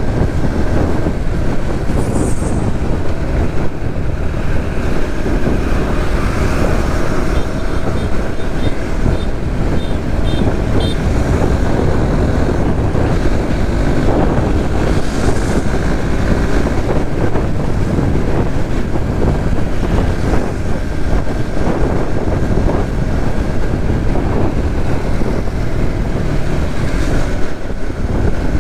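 Steady rush of riding noise from a Suzuki GSX-S150's 150 cc single-cylinder engine under way in traffic, mixed with wind over the microphone. A short run of faint high beeps comes about a third of the way in.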